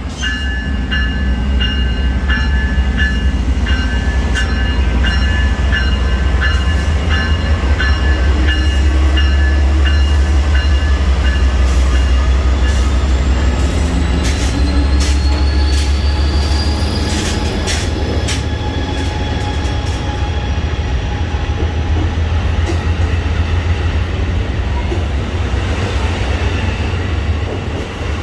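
Amtrak passenger train rolling through the station at low speed with a deep, steady rumble. Its wheels click evenly over rail joints, about two a second at first, and give high squeals, one of them slowly rising in pitch partway through.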